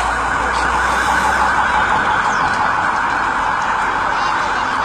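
Emergency-vehicle siren wailing steadily, with no break or change.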